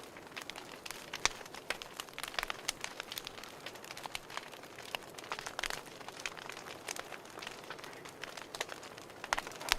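Wood fire crackling, with irregular sharp pops and snaps over a soft hiss and a cluster of louder pops near the end.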